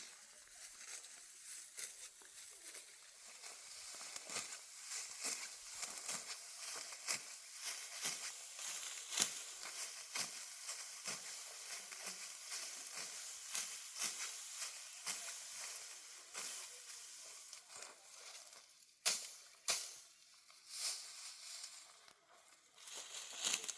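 Dry wheat stalks rustling and crackling, a dense run of irregular crisp crackles, with two sharper snaps close together about three quarters of the way through.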